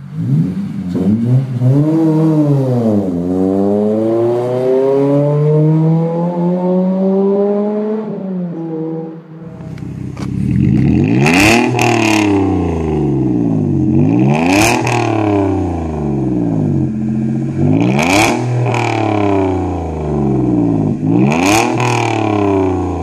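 A car engine revved up and down through its exhaust. About nine and a half seconds in, a second car takes over, its engine blipped in regular revs about every three seconds, with sharp cracks near the top of several of them.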